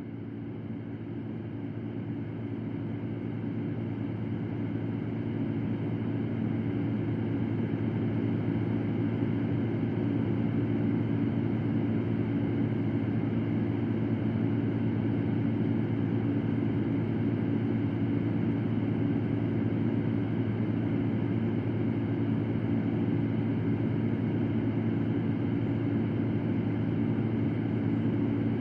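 Electric fan running steadily: a low hum under an even rush of air, swelling up over the first few seconds and then holding level.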